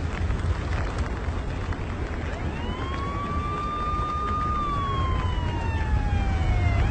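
A siren starts wailing about two seconds in: it rises, holds a high note, slides slowly down, then sweeps back up near the end. Under it runs a steady, loud, low rumbling noise.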